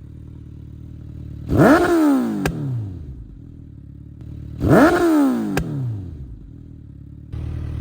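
Suzuki Hayabusa's inline-four with an Akrapovič full-system exhaust idling, then blipped twice on the throttle: each rev climbs fast and falls back over about a second, ending in a sharp exhaust pop.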